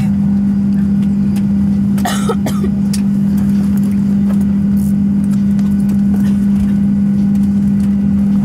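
Steady cabin drone inside a Boeing 737-700 on the ground, a strong even hum over low rumble, with a brief short sound about two seconds in.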